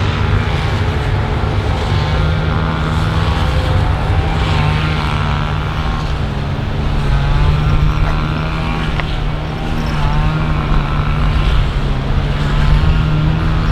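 Aircraft engines running at the airport: a loud, steady low hum held at one pitch, with engine noise above it.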